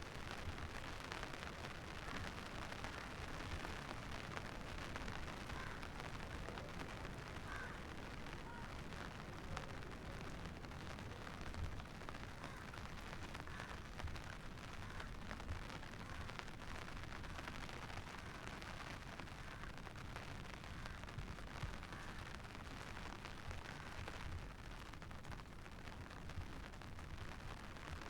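Steady rain with a low wind rumble on the microphone.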